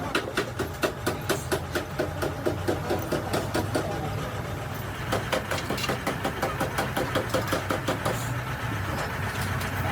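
An engine idling, with an even ticking of about four to six beats a second over a steady low hum.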